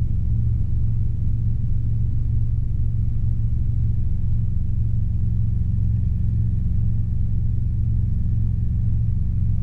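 Robinson R22 helicopter in climbing flight, heard from the cockpit: its engine and rotor make a steady, unchanging low drone.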